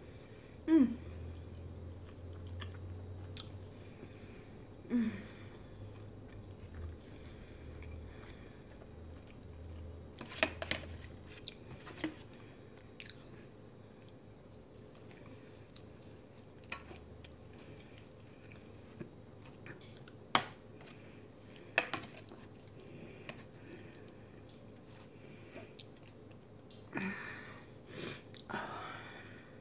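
Close-up chewing of soft lasagna, with wet mouth and lip sounds, and scattered sharp clicks and scrapes from a metal spoon scooping in an aluminium foil pan.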